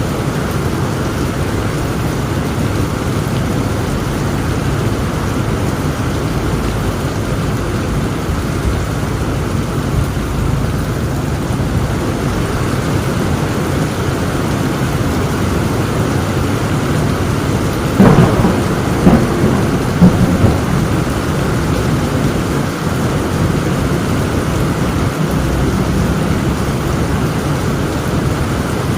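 Heavy rain falling steadily through a thunderstorm, with a sudden sharp crack of thunder about two-thirds of the way in, followed within two seconds by two more loud claps that quickly die back into the rain.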